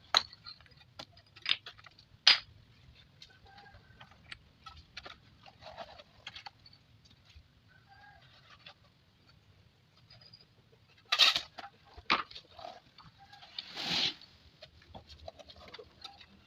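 Chickens clucking on and off, with several sharp knocks and a longer scraping burst near the end.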